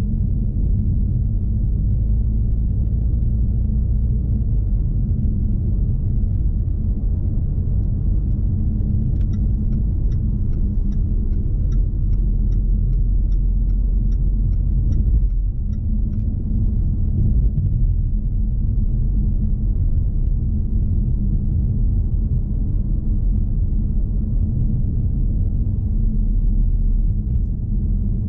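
Steady low rumble of a 2020 Jaguar XE P300's 2.0-litre turbocharged four-cylinder and road noise, heard inside the cabin while driving. A light, even ticking runs for several seconds in the middle.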